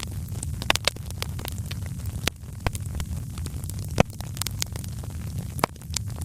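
Wood fire burning in a fireplace: a steady low rumble of the flames with irregular sharp crackles and pops, the strongest pops about four seconds in and near the end.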